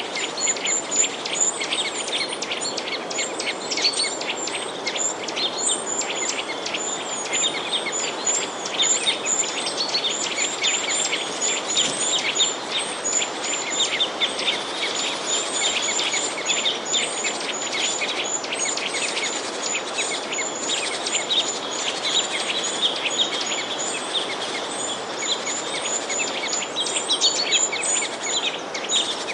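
Many small songbirds chirping at once: a dense, continuous chatter of short high notes over a steady background hiss.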